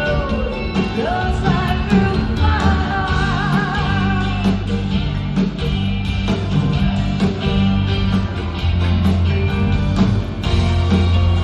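Live pop-rock band playing with a steady beat of drums, bass and guitar, and a woman singing lead, holding one wavering vibrato note from about two to four and a half seconds in.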